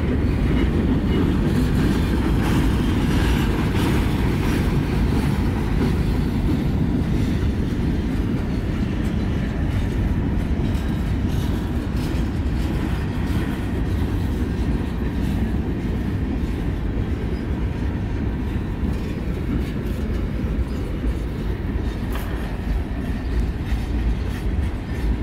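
Freight cars of a slow-moving Canadian National freight train rolling past: a steady rumble of steel wheels on rail with some clickety-clack at the rail joints. The train is riding its brakes lightly.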